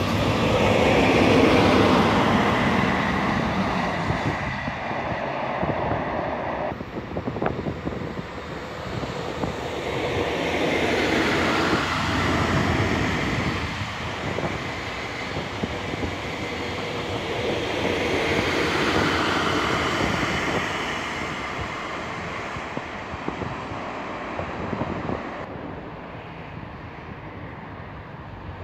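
Regional push-pull train of double-deck coaches with a locomotive at the rear rolling past on the rails, its wheel and running noise swelling and easing several times, then fading as it moves away.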